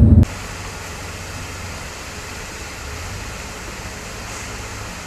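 Steady, even hiss of background noise with no distinct events, cutting in abruptly just after the start.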